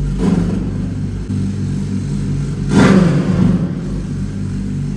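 Kawasaki Z900's inline-four engine idling, blipped briefly just after the start and revved harder about three seconds in, through a loud exhaust.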